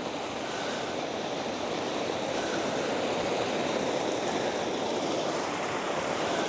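Steady rush of water falling in a small waterfall, an even noise that grows slightly louder over the first couple of seconds.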